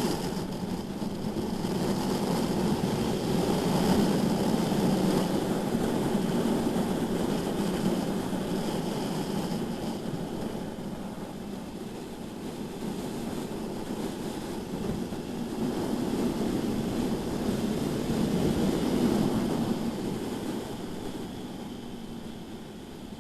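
Sport bike, a 2015 BMW S1000RR, running on a race track. The sound swells as the bike pulls out of corners, loudest about four seconds in and again near nineteen seconds, and eases between.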